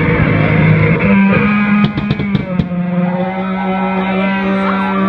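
Live band playing loud, distorted noise rock: a held low guitar drone that shifts pitch about a second in, a few sharp hits, and sliding high tones near the end.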